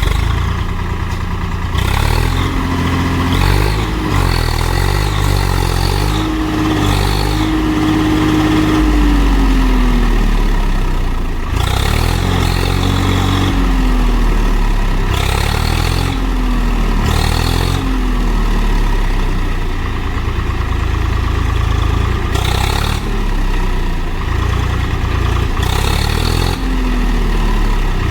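Tractor diesel engine revving up and down over and over under heavy load, its pitch rising and falling every few seconds, as it strains to pull a trolley out of mud. Short higher-pitched bursts come and go on top of the engine.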